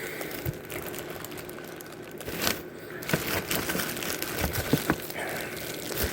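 Packing material crinkling and rustling as a coffee maker is worked out of its box, with a few small knocks.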